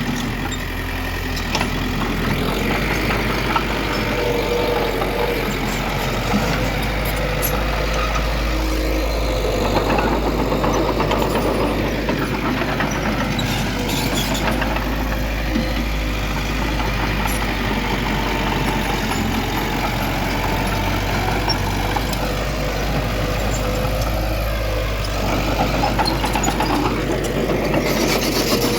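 Heavy diesel engine of earthmoving machinery running steadily under load, with a low rumble and a few brief sharp knocks.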